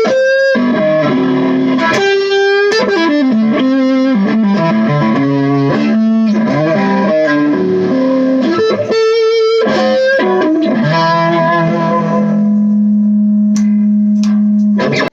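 Epiphone Emperor Swingster hollow-body archtop electric guitar played through an amplifier. It runs through picked single-note phrases and chords, then ends on a chord held for about four seconds that cuts off suddenly.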